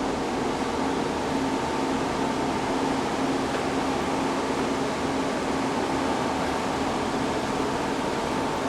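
A steady mechanical hum over an even hiss, unchanging in level.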